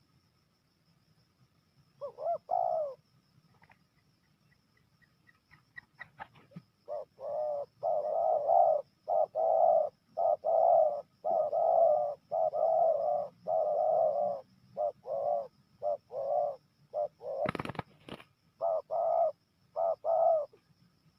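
Spotted dove (tekukur) cooing: a short phrase about two seconds in, then a long run of repeated coo notes from about seven seconds in until near the end. A sharp knock comes shortly before the last few coos.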